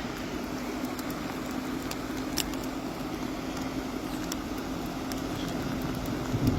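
A car running with a steady low hum over an even rush of noise, with scattered light ticks throughout.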